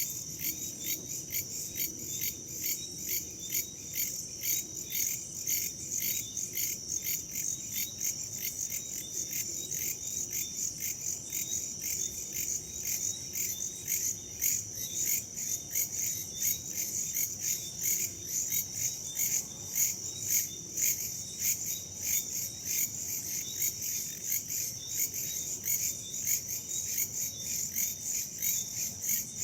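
A dense chorus of crickets and other insects: high-pitched chirping in rapid, even pulses that goes on without a break.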